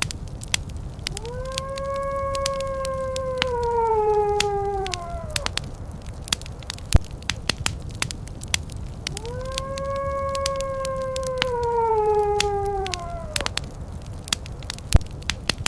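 A wolf howling twice, each howl about four seconds long, rising at the start and sliding down at the end. Underneath, a fireplace crackles steadily with frequent sharp pops.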